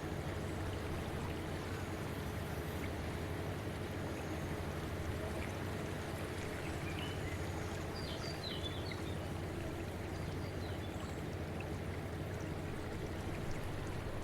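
Steady rushing flow of water, a continuous even wash of sound with a faint low hum beneath it. A few faint high chirps come about eight seconds in.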